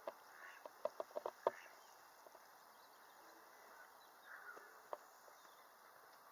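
Faint outdoor sounds: a quick run of short, sharp clicks about a second in, another single click near five seconds, and faint bird-like calls over a low background hiss.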